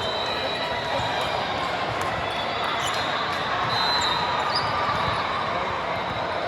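Busy indoor gymnasium during a game: a steady hubbub of crowd chatter, with sneakers squeaking on the court now and then and balls hitting the floor.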